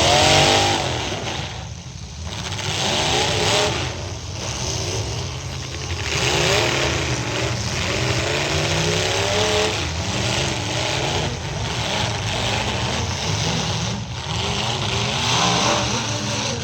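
Demolition derby trucks' engines running hard together, revving up and down over and over, with a steady loud rumble underneath.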